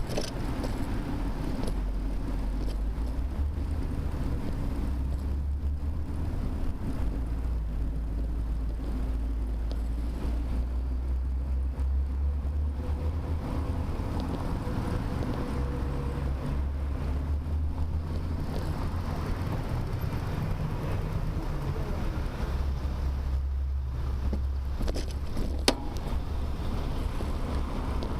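Steady low rumble of wind and road noise on a bicycle-mounted rear camera while riding, with one sharp click near the end.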